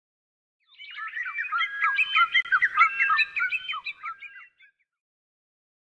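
Birds chirping: a dense run of short, quick, overlapping chirps that starts about a second in, swells, then fades away after about four seconds.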